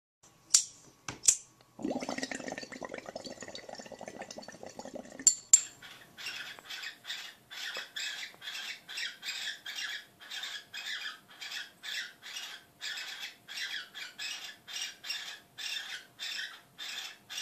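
Pet bird giving a rapid, even run of short squawking calls, about two and a half a second, during mating. Before the calls begin there are a few sharp clicks and some seconds of rustling.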